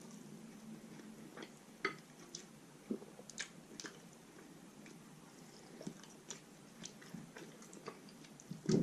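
Close-up eating sounds of roast chicken being bitten and chewed: faint, scattered wet clicks and smacks, with a louder burst just before the end.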